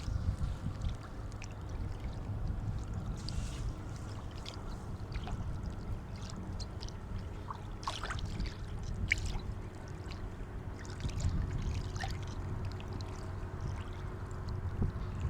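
Sea water lapping and washing at the shore: a steady low wash with small splashes and drips scattered through it, a few sharper ones near the middle.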